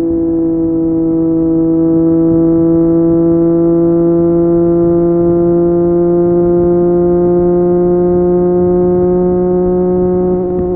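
Triumph Street Triple 765 RS inline-three engine through an Akrapovic exhaust, pulling at steady throttle with its note rising slowly. Near the end the note breaks and drops.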